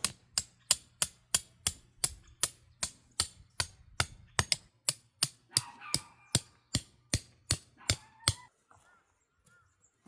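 A steady series of sharp knocks, about three a second, that stops about eight seconds in.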